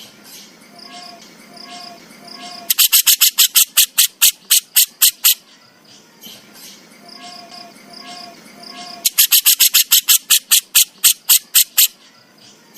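Jenggot jawa songbird giving its harsh, rasping 'besetan' call: two rapid bouts of about a dozen strokes each, roughly five a second and lasting over two seconds. A quieter repeating three-note figure sounds in the pauses between the bouts.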